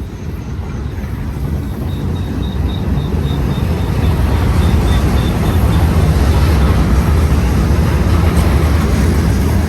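Union Pacific manifest freight train rolling past: a steady, rumbling wheel-and-rail noise that grows louder over the first few seconds and then holds, with a quick, high ticking for a few seconds partway through.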